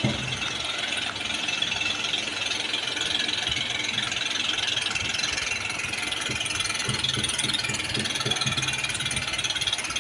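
Diesel tractor engine running steadily, with continuous metallic rattling.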